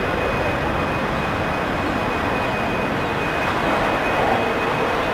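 Aircraft engines running at the airport, a steady broad rumble with a thin high whine held on one pitch, swelling slightly about four seconds in.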